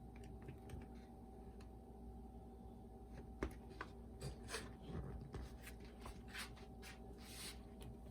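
Faint scattered clicks and rustles of hands handling the boombox and its small parts, over a steady low hum.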